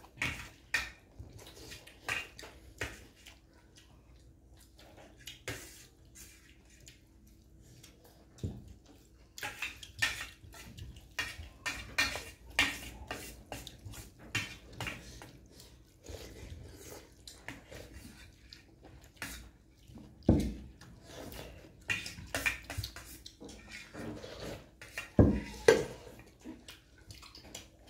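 Cutlery clinking and scraping on a plate during eating: many short, light clicks, with two heavier knocks in the last third.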